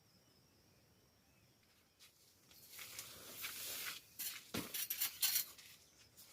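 Camping gear being handled: rustling, then several sharp clinks and one heavier knock near the middle. It is almost quiet for about the first two seconds.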